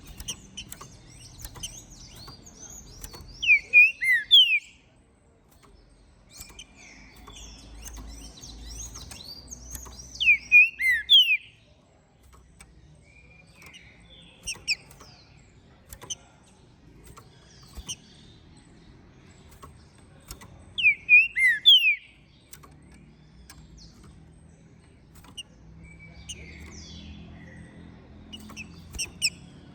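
Green-winged saltator (trinca-ferro) singing: three loud phrases of a few quick slurred whistled notes, about seven to ten seconds apart, with softer high twittering between them.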